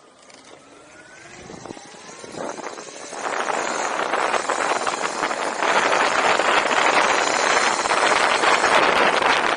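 Wind buffeting the microphone: a loud, steady rushing noise that builds over the first three seconds and then holds, with a few faint gliding tones before it.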